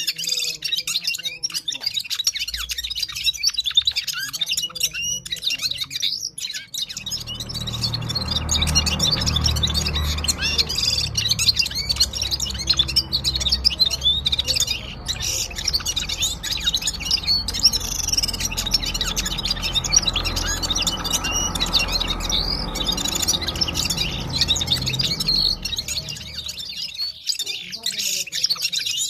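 A Gulsar songbird singing at full power in a fast, continuous run of high chirps and trills. A low rumble sits under the song through most of the middle of the stretch.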